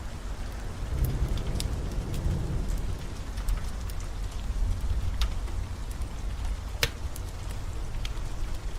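Steady rain with a low rumble underneath, and the scattered sharp pops and crackles of a burning wood fire, one louder pop about seven seconds in.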